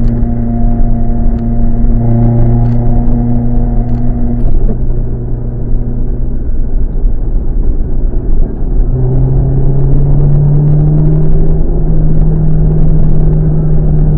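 Car with an HKS Silent Hi-Power aftermarket exhaust droning steadily while driving under way. About nine seconds in, the exhaust note steps up in pitch and keeps rising gently as the car gathers speed.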